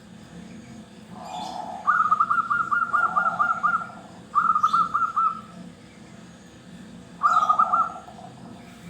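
Zebra doves (perkutut) cooing: three loud phrases of quickly repeated, trilled notes, the first about two seconds long, the next two shorter, with a lower-pitched accompanying part under them.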